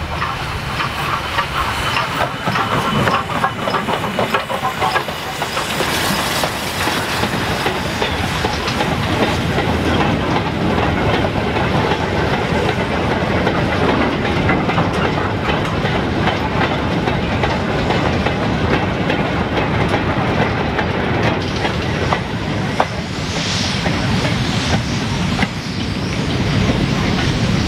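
Train passing, its wheels clattering over the rail joints amid a steady rushing noise.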